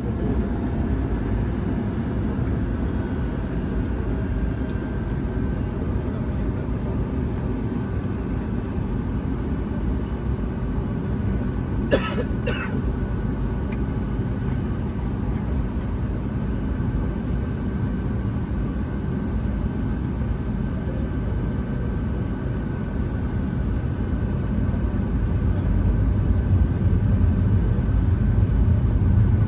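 Steady low rumble of a Boeing 757-200's engines and airflow heard inside the passenger cabin, growing louder over the last few seconds. Two short sharp sounds come about twelve seconds in.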